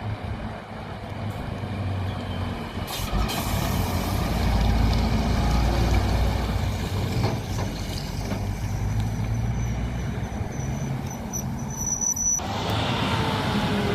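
Heavy truck's diesel engine running as it drives past, with a short hiss of air brakes about three seconds in. The sound changes abruptly near the end.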